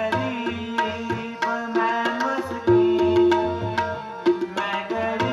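Instrumental passage of Sikh devotional music: tabla playing a quick run of strokes under held melodic notes, with one long sustained note about halfway through.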